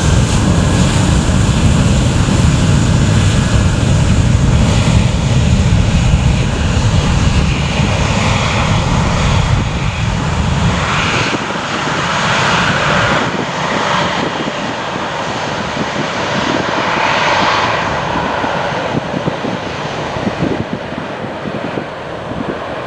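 Departing airliner's engines at takeoff power: a loud, deep rumble that drops away about halfway through, leaving a roar that slowly fades as the plane climbs away.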